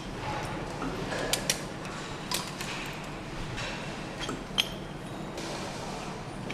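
Scattered small mechanical clicks and knocks, the loudest about four and a half seconds in, over a steady low hum.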